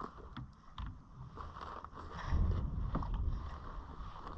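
Wind buffeting an action camera's microphone, which has no windshield, swelling about two seconds in, with a few small knocks and clicks of handling on the kayak.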